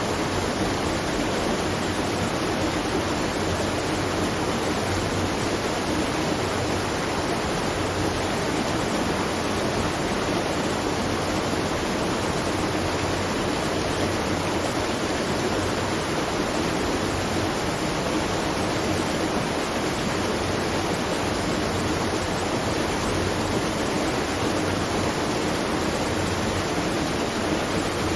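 Water at a watermill rushing and splashing down in a steady, unbroken stream, with a faint low hum underneath.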